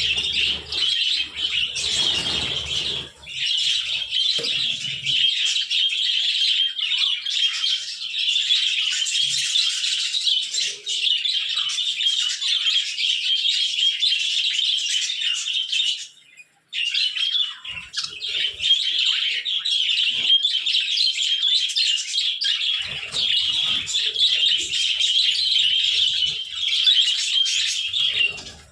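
A flock of budgerigars chattering and chirping continuously, a dense warbling din that drops out briefly about sixteen seconds in.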